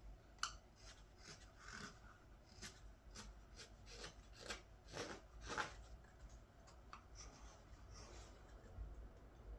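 Carving knife taking short slicing cuts in green wood, a faint series of quick, irregular strokes, each a brief scrape of the blade through the wood.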